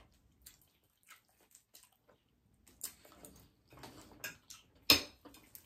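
Eating sounds of people chewing crispy fried chicken: scattered soft smacks and small clicks, with one sharp, louder click about five seconds in.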